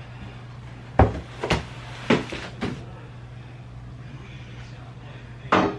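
Household knocks and clunks of things being handled and put away while unpacking, like cupboard doors closing: four sharp knocks in the first three seconds and one more near the end, over a steady low hum.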